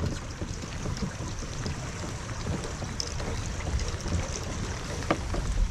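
Strong wind buffeting the microphone and water slapping a kayak, with a few short squeaks of rubber Crocs shoes on the kayak deck.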